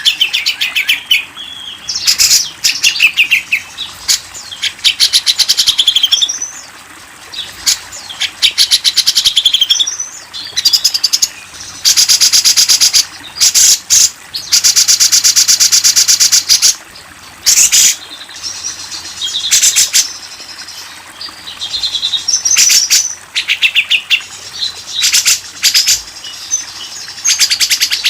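Recorded wild songbird calls used as masteran for cage birds: repeated rapid chattering trills and short chirps. The loudest is a long, dense trill a little past halfway.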